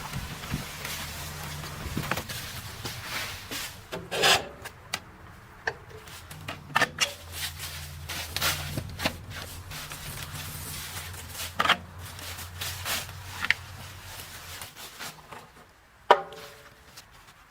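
A motor runs with a steady low hum while wood cracks, knocks and scrapes in irregular sharp bursts. The hum stops a little before the end, and one more loud crack follows.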